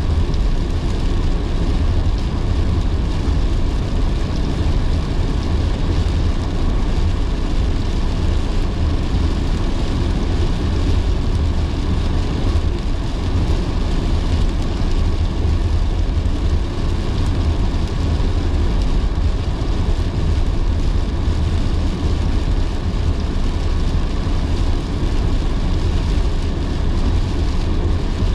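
A car driving in heavy rain: a steady low road rumble with an even hiss of rain and wet road noise, unchanging throughout.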